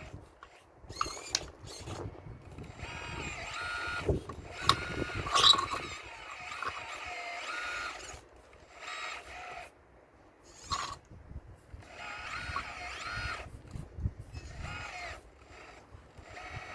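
RC model excavator's electric motors whining in bursts of a few seconds as the arm and bucket work, with sharp knocks and clatter from stones being broken loose.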